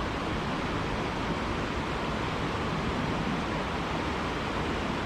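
Steady rushing of a small creek's running water, an even wash of noise with no break.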